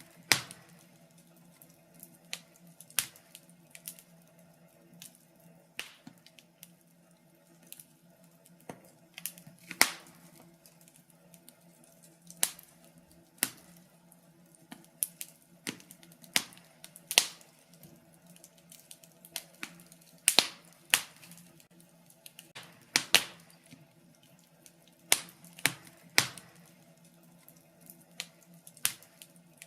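Wood fire in a fireplace crackling, with irregular sharp pops a second or so apart; a few pops stand out louder than the rest.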